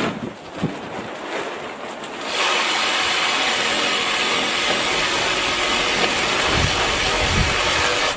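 BLACK+DECKER 18V cordless saw motor starting about two seconds in, running steadily for about six seconds and stopping abruptly near the end. A few scattered knocks come before it.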